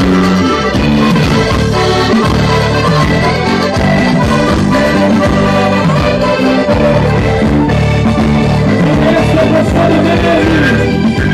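Accordion-led Portuguese Minho folk band playing an instrumental passage at a steady, lively pace.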